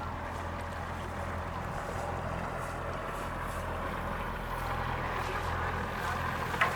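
A boat engine running steadily with a low hum, against a wash of water and wind, and a single sharp click just before the end.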